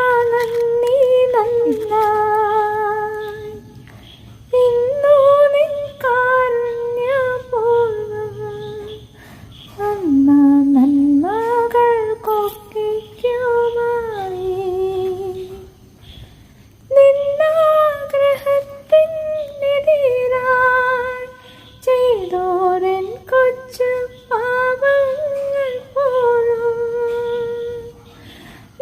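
A single high voice singing a Malayalam song unaccompanied, with long held and gliding notes, in phrases of a few seconds with short pauses between them.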